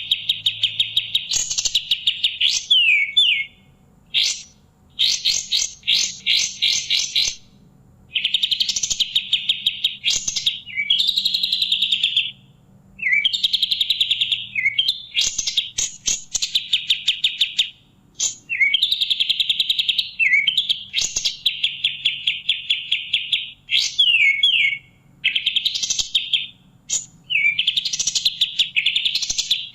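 A kapas tembak bird singing: loud, rapid trilled phrases a second or two long, broken by quick downslurred notes, repeated over and over with short pauses between.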